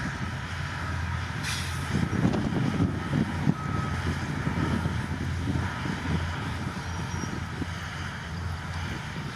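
Heavy diesel machinery engine running steadily, with a short hiss about one and a half seconds in.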